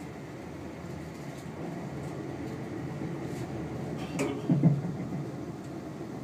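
Steady low rumble of a moving electric commuter train heard from inside the carriage, with a brief louder knock and thump about four seconds in.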